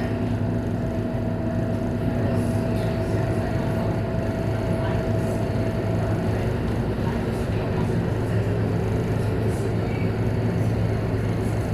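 Scania K230UB city bus running, a steady low diesel drone with a high whine over it that fades out about halfway through.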